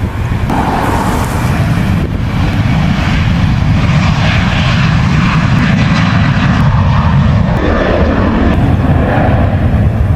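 Boeing 737-800 jet engines running loud on takeoff: a continuous deep rumble with a broad rushing jet noise that swells toward the middle and eases slightly near the end.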